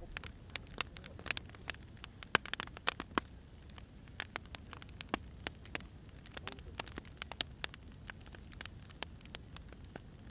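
Burning firewood crackling: irregular sharp pops and snaps, several a second, some louder than others, over a low steady rumble.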